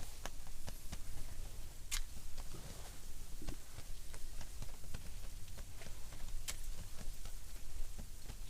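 Strong wind buffeting the tent as a steady low rumble, with irregular sharp clicks and ticks throughout, the loudest about two seconds in and again about six and a half seconds in.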